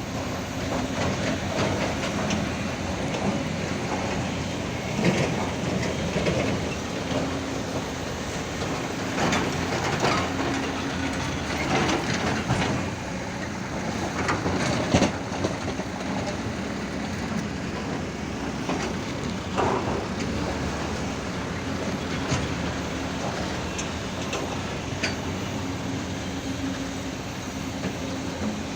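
Hydraulic excavator's diesel engine running steadily, with irregular clanks and crashes as the bucket works and soil drops into a dump truck's bed.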